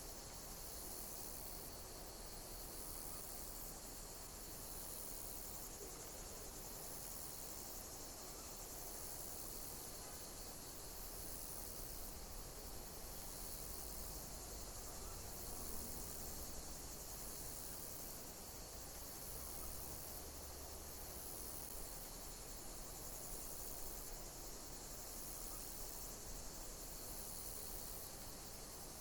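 Insects chirping in a steady high-pitched chorus, with one call repeating about every two seconds over the continuous trill.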